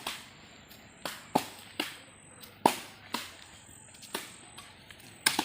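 A series of sharp knocks, unevenly spaced at about one or two a second, each ringing briefly, like blows struck on a hard surface. A thin, steady high whine runs underneath.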